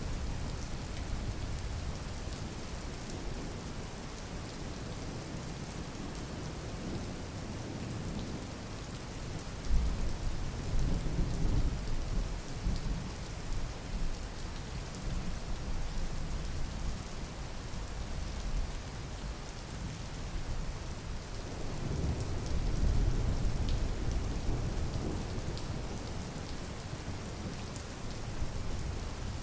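Steady rain falling, with two rolls of low thunder: one breaking suddenly about a third of the way in and rumbling for a few seconds, another swelling and fading about three quarters of the way through.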